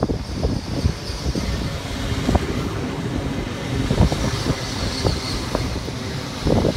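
LNER Azuma (Hitachi high-speed) train passing through at speed: a continuous rumble and rushing hiss, with irregular knocks from the wheels over the track.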